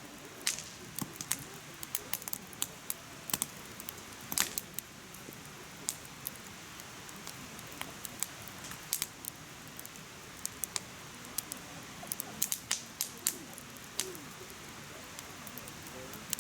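Firewood burning in a mesh fire pit, crackling with irregular sharp pops over a soft steady hiss of the flames; the loudest pop comes about four seconds in, and a quick run of pops comes near the end.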